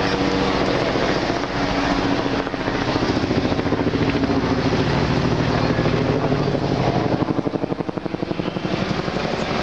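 Heavy truck's diesel engine running with a fast, steady throb that eases off about eight seconds in.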